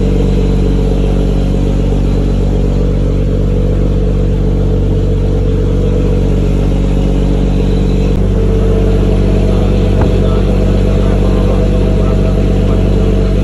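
A fishing boat's engine running steadily at a constant, loud drone, its tone shifting slightly about eight seconds in.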